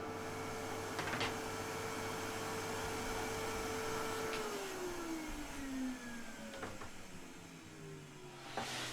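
Evolution R255TBL+ table saw motor running steadily, then switched off about four seconds in, its whine falling in pitch as the blade spins down. A knock about a second in and a clatter near the end.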